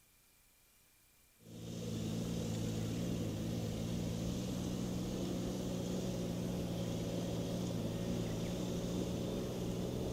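A vehicle running at a steady speed, engine hum and road noise with no change in pitch, starting abruptly about a second and a half in.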